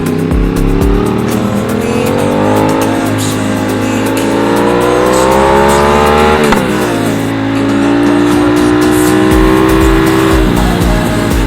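Aprilia RS660's parallel-twin engine under acceleration, its pitch rising steadily for about six seconds before a sharp drop at an upshift. It then holds steady in the next gear until the revs fall off near the end.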